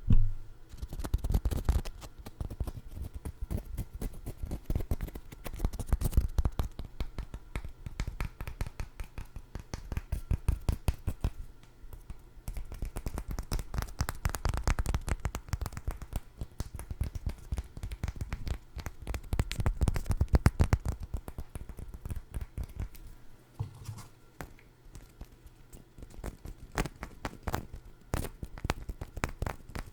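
Hands tapping and scratching at food items close to the microphone: dense, crisp clicks and scratches, with louder flurries every few seconds.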